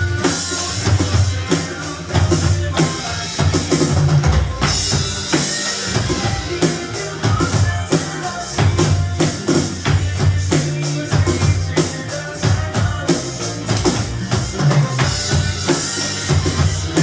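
Drum kit played along to the backing track of a slow rock ballad, with a steady bass-drum and snare beat and cymbal crashes washing over it three times.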